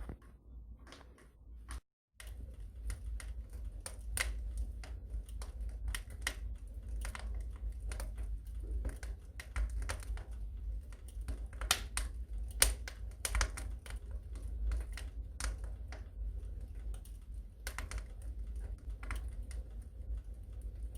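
Wood fire burning in a fireplace, crackling with irregular sharp pops and snaps over a low steady rumble of the flames. The sound cuts out for a moment about two seconds in.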